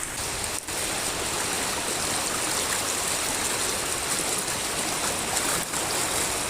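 Floodwater rushing steadily from a culvert outfall into a swollen brook in spate. The sound drops out briefly twice.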